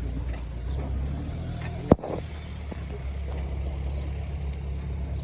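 Steady low engine rumble of a vehicle running nearby, with one sharp knock about two seconds in.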